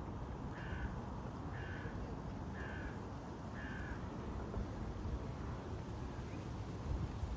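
A bird calling four times, about a second apart, each call short and harsh, over a steady low background rumble.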